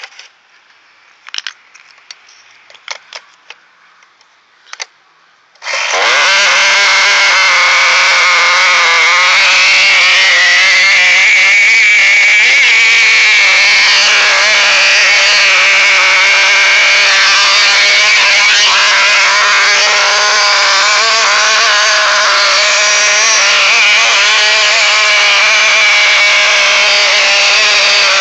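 A few clicks and knocks, then about six seconds in the small gasoline engine of an HPI RC car starts and runs loudly and steadily through a homemade straight copper pipe exhaust. Its pitch wavers a little.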